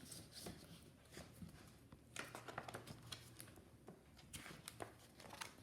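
Near silence with faint rustling and small scattered clicks, picking up about two seconds in: a paper picture book being handled.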